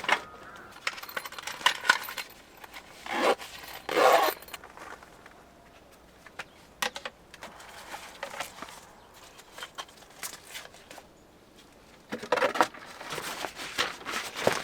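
Scattered small clinks and knocks of objects being handled, with short bursts of rustling about three and four seconds in and again near the end.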